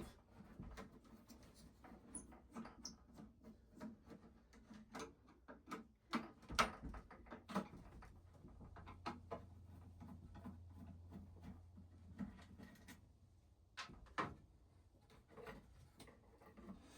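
Faint, scattered light knocks and clicks of things being handled, with a low steady hum in the middle of the stretch.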